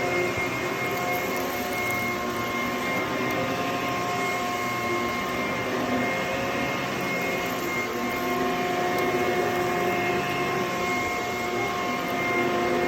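HYLA water-filter vacuum cleaner running steadily over carpet: a constant motor whine with a few fixed tones, its lower tones wavering slightly as it is worked back and forth.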